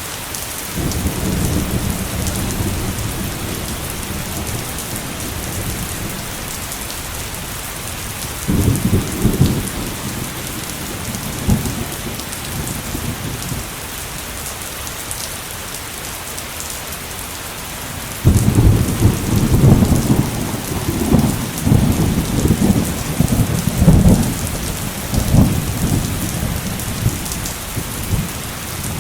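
Heavy rain falling steadily, with thunder rumbling low: a rumble near the start, a short crack and rumble at about nine seconds, and a long, loud rolling peal from about eighteen seconds that crackles on for several seconds.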